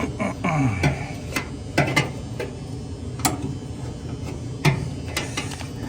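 Irregular clicks and knocks of small metal dryer parts and tools being handled, about a dozen sharp taps spread over a few seconds, while the drum support rollers and their shafts are worked on.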